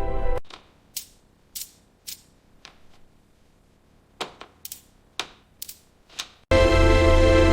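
A series of about ten short, sharp clicks at irregular intervals, some in quick pairs, with near quiet between them. Music cuts off just before the clicks and comes back loudly near the end.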